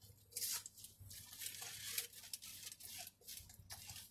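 Bite and chewing of a crunchy taco shell: faint, irregular crunches, with some rustling of the paper wrapper.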